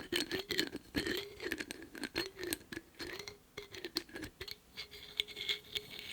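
Lids being handled: rapid tapping and clicking on a lid, over a wavering squeak that rises and falls in pitch as a lid is rubbed or twisted.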